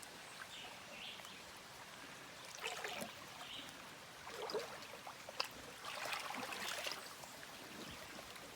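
Shallow, clear river trickling and flowing over its bed, a faint steady water sound, with a few brief louder noises breaking in over the middle of the stretch.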